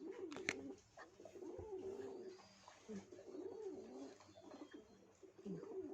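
Pigeon cooing: a run of four or five low, wavering coos, with a couple of short clicks near the start.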